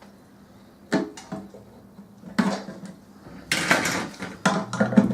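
Microwave parts being handled on a workbench: a few separate metallic knocks, then a denser rattling and scraping clatter over the last second and a half.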